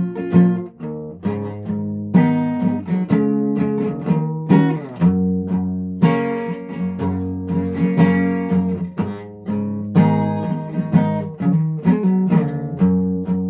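Guitar being strummed, with the chords changing every second or two.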